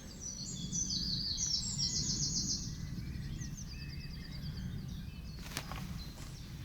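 A songbird sings one quick phrase of high notes ending in a fast trill, over a steady low rumble of wind noise. A couple of sharp clicks come near the end.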